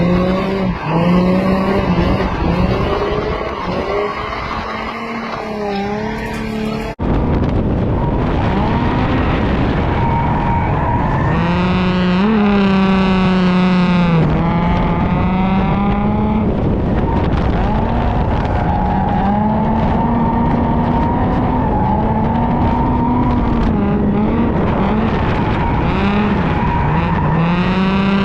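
A drift car's engine revving hard, its pitch swinging up and down as the throttle is worked, with tyres skidding. The sound changes abruptly about seven seconds in, after which the engine runs louder and higher.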